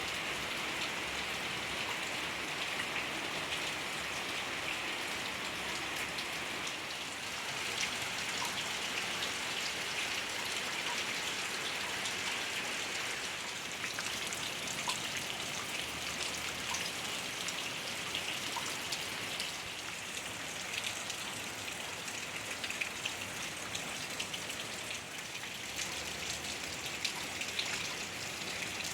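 Steady rain falling, with many scattered drop ticks.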